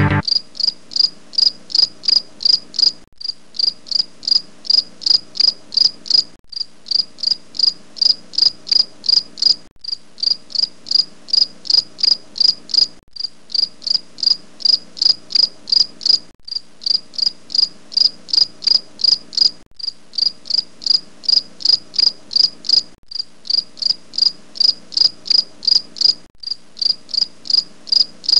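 Cricket chirping steadily, a high chirp about three times a second, with a short break every three seconds or so.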